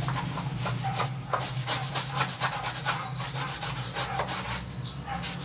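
Brush scrubbing dust off a window air conditioner in repeated short strokes.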